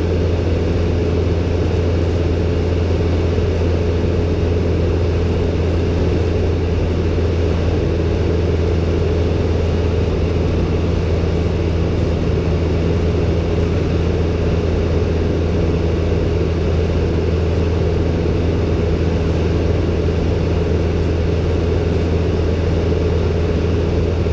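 Robin DR400-120's four-cylinder piston engine and propeller droning steadily in cruise, heard from inside the cockpit.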